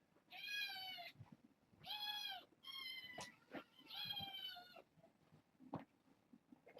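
Kitten meowing four times in a row, high-pitched calls each lasting about half a second to a second, with a few faint knocks between them.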